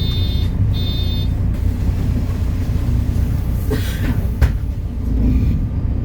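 MAN Lion's City NL293 city bus's six-cylinder diesel engine running with a steady low drone. Two short electronic beeps sound in the first second and a half, and a single click comes a little after the middle.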